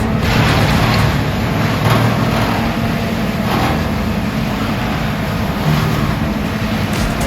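Heavy land-clearing machinery engine running steadily under load, a continuous low rumble with a broad mechanical noise above it.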